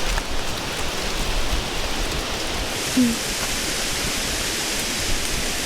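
Steady rushing noise with a low rumble, with one brief low squeak about three seconds in.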